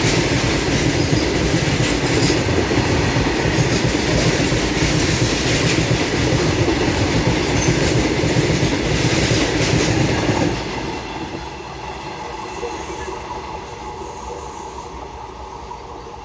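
Freight train of BOXN wagons rolling past close by, a loud steady rumble of wheels on rail; about ten seconds in the sound drops suddenly as the last wagon goes by, and the rumble then fades away.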